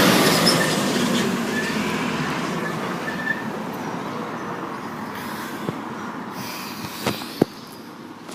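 A passing vehicle, its noise loudest at the start and fading steadily away over several seconds, with two sharp clicks near the end.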